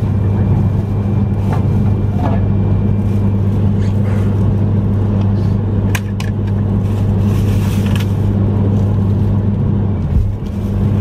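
Running noise of a Yamagata Shinkansen Tsubasa train heard inside the passenger cabin: a steady low hum and rumble of the train moving along the rails. A few sharp clicks come about six seconds in, and the sound dips briefly near the end.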